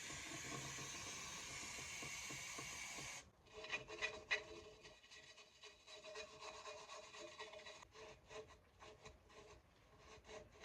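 Aerosol brake cleaner spraying in a steady hiss that cuts off about three seconds in, followed by a wire brush scrubbing the steel brake backing plate in short, irregular rasping strokes.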